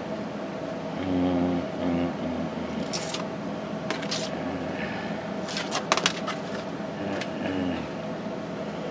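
Clicks and knocks of records and turntable being handled, over a steady hum, with a few short low murmurs.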